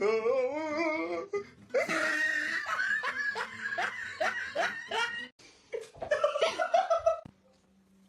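People laughing: a wavering opening, then a long run of rhythmic ha-ha bursts at about three a second, and a last burst before it drops to near quiet near the end.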